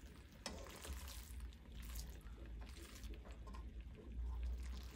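Gobi manchurian quietly sizzling and bubbling in a nonstick wok just off the stir, with a faint click or two from the spatula against the pan about half a second in.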